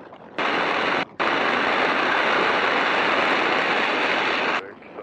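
Loud, even rush of wind noise in the open-cockpit biplane's headset microphone, with a faint steady whine in it. It cuts in abruptly about half a second in, drops out for a moment near one second, and cuts off sharply near the end, leaving only the faint engine and cockpit sound beneath.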